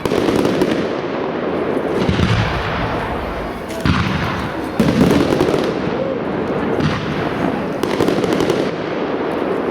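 Aerial firework shells bursting in quick succession, about six loud bangs spread over nine seconds, each trailing off in a rumbling echo.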